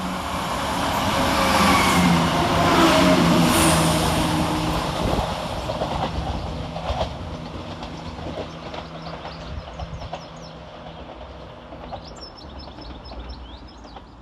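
Scotrail Class 170 Turbostar diesel multiple unit going by, its underfloor diesel engines running with a steady low note over the noise of the wheels on the rails. It grows louder to a peak about three seconds in, with a few wheel clicks over rail joints, then fades as it moves away.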